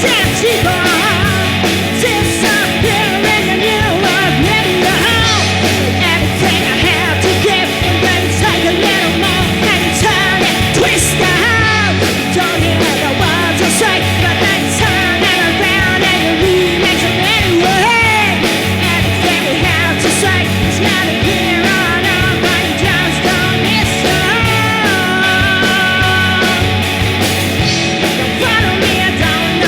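Loud rock band music with drums and guitars, a lead line bending and wavering in pitch over a dense, steady backing.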